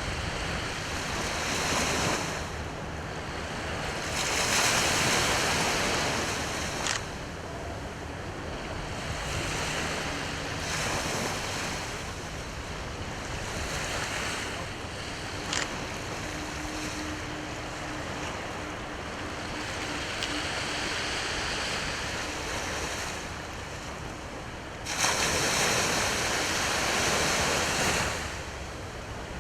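Sea waves breaking and washing up the shore in repeated surges, the loudest breaker crashing in suddenly near the end.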